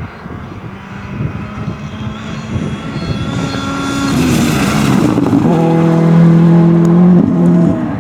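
Rally car engine at high revs approaching and growing louder, loudest about six to seven seconds in, with a short dip in pitch near the end.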